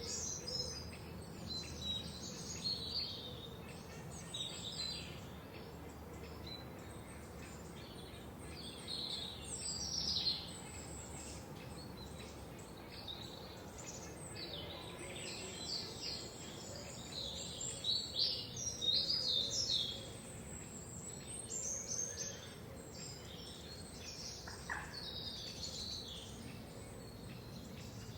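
Several forest songbirds singing and chirping at once, short high trills and chirps that come and go over a steady faint background hiss.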